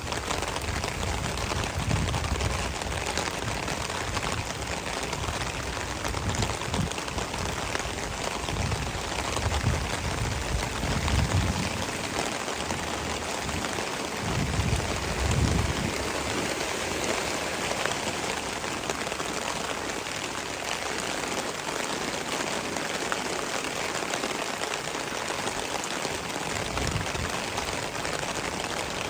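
Steady rain falling, an even hiss, with occasional low thumps during the first half.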